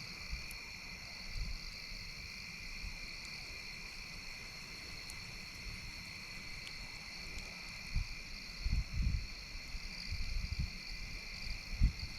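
Steady chorus of crickets or similar insects, a constant shrill drone at two pitches. Low gusty rumbles on the microphone come in during the second half.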